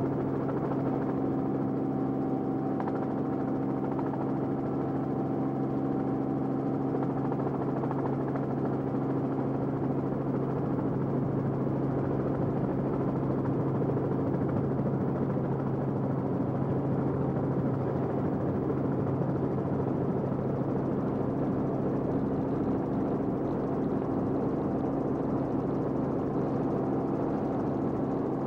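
Aircraft engine running steadily, a constant low drone that holds one pitch throughout.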